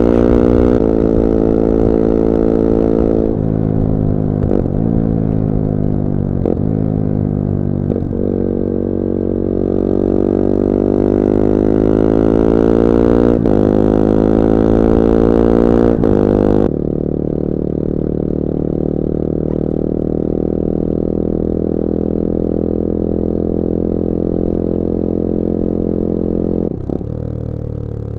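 Bullit Hero 250's CF Moto 250cc four-stroke engine running on the road, its note rising and falling with several brief dips in the first half. About two-thirds of the way through it drops suddenly to a quieter, steadier, lower note.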